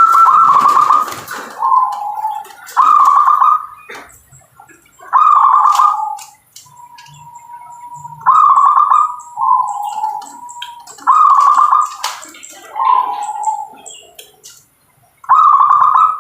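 Zebra dove (perkutut) cooing in repeated phrases, each a higher note dropping to a lower one, every one and a half to three seconds, with a few sharp clicks between phrases.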